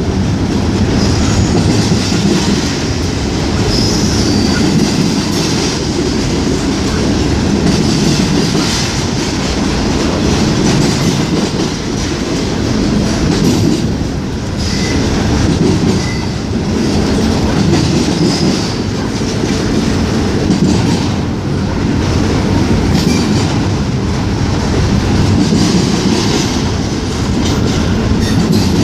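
Norfolk Southern freight train cars rolling past, a steady loud rumble and clatter of steel wheels on the rails that runs without a break, with brief high wheel squeals now and then.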